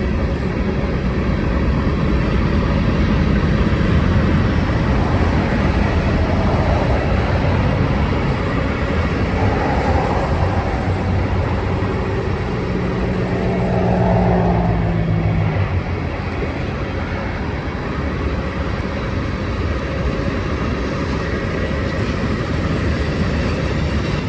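Freight cars of a long Union Pacific manifest train rolling past at climbing speed: a steady, loud rumble and clatter of steel wheels on rail. A brief droning tone comes through partway along, and a thin, high-pitched wheel squeal sets in during the last few seconds.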